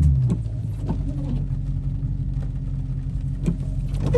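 Car engine idling steadily, with a brief swell right at the start and a few light clicks scattered through.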